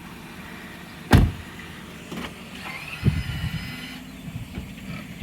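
2016 Lexus RX 350 straining against a tow chain hooked to a tree, with a low engine rumble that grows heavier about three seconds in. A single loud, sharp impact about a second in is the loudest sound.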